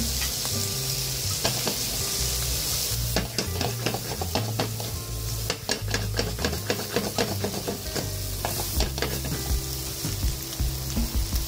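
Shrimp and sliced mushrooms sizzling in butter and oil in a cast iron skillet. From about three seconds in, a run of sharp clicks and scrapes comes as the food is stirred in the pan, then the steady sizzling goes on.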